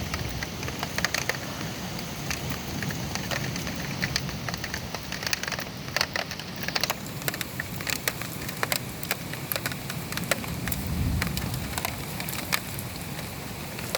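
Heavy rain falling steadily, with many sharp, separate drop hits on nearby surfaces over a constant hiss. A low rumble swells briefly about eleven seconds in.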